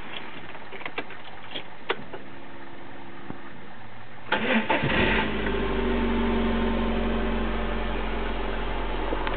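MG F's four-cylinder engine starting about four seconds in, then settling into a steady idle. A few sharp clicks come before it.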